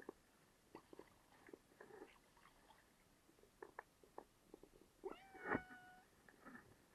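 A cat meows once, a short pitched call about five seconds in, among faint scattered taps and clicks.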